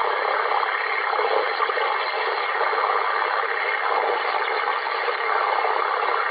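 Radio receiver static on the 11-meter band: a steady, even hiss through the receiver's narrow audio passband, with no clear voice in it.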